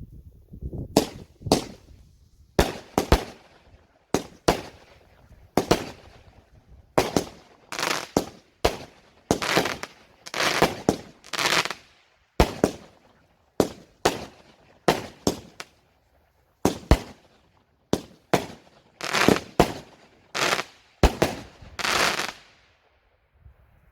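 Fireworks going off: a long irregular run of sharp bangs, about one or two a second, each trailing off in a short crackling hiss.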